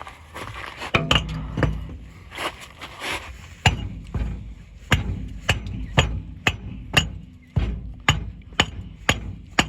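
An axe striking over and over at a rock wedged in a truck tire's tread, sharp metal-on-stone blows about two a second.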